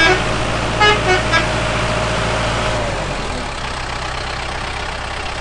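A vehicle horn tooting in short honks at the start and a few times about a second in, over steady engine noise that eases off about three seconds in.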